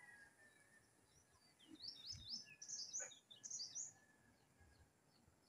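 Faint birdsong outdoors: a small bird sings a quick run of short, high chirps from about two to four seconds in. At the very start, the tail of a rooster's crow fades out.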